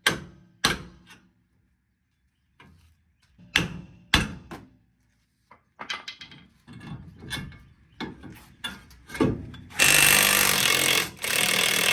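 Sledgehammer blows on the front steering knuckle to pop loose the tie rod end and upper ball joint studs: a few sharp metal impacts, the heaviest two close together about four seconds in, followed by lighter knocks. Near the end a power tool runs loudly in two bursts with a brief break between them.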